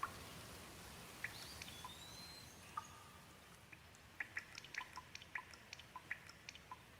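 Gentle rain: a faint hiss with scattered drops ticking, the drops growing busier about halfway through. A faint gliding bird call early on.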